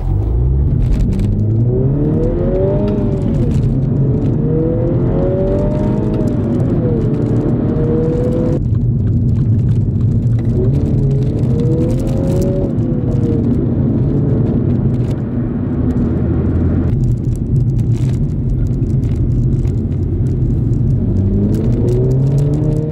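Mini John Cooper Works F56's 2.0-litre turbocharged four-cylinder engine accelerating hard from a standstill, heard from inside the cabin. The revs climb, then drop sharply at each shift of the six-speed manual gearbox, over several pulls.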